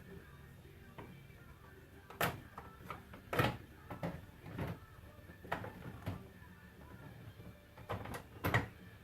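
Irregular clicks and knocks of hand work on a pickup's front end, plastic trim and clips being handled, with a steady low hum underneath.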